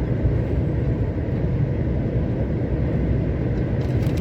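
Heavy truck driving, heard from inside the cab: a steady, even rumble of engine and road noise.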